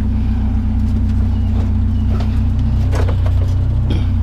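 Vehicle engine idling steadily, with a few light knocks spread through it.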